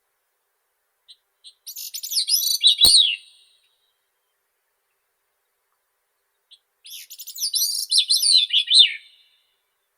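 Grey-cheeked thrush singing two songs, each a rapid, high, twisting series of notes that slide downward near the end, with a pause of a few seconds between them. A brief click falls near the end of the first song.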